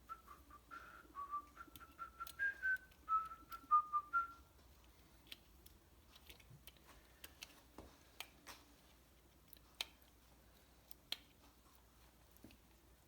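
A man whistling a short tune of a few notes, followed by scattered light clicks and taps of hand work at the bench.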